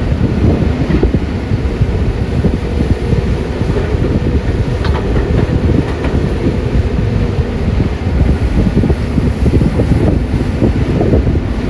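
CAT 320D hydraulic excavator's diesel running under load: a loud, steady heavy rumble with rattling and a few faint clacks.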